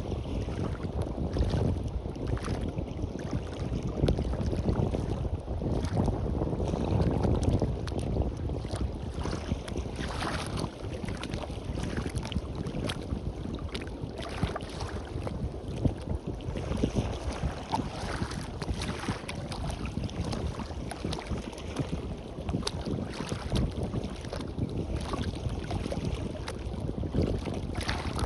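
Sea surf washing on a beach, with wind buffeting the microphone as a steady low rumble and crackle.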